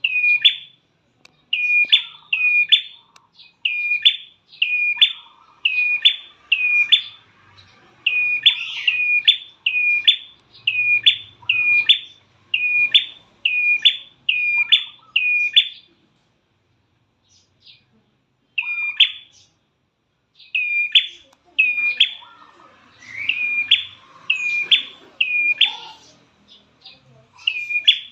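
Prenjak klawu (a prinia) calling: sharp high chirps in quick runs of two or three, repeated steadily, with a pause of about three seconds past the middle. Played as a lure call to set caged birds singing.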